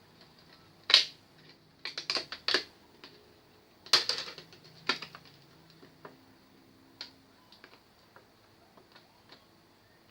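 Irregular sharp clicks and knocks of hard parts and tools being handled while a flat-screen TV is worked on: a loud one about a second in, quick clusters around two and four seconds in, and a lone click near seven seconds.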